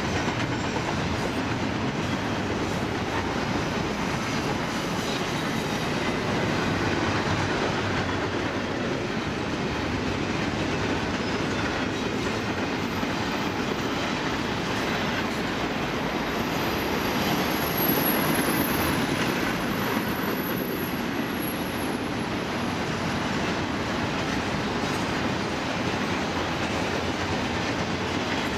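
Double-stack intermodal container train rolling past: steady rumble and clatter of the well cars' wheels on the rails. A faint high wheel squeal comes and goes through the middle.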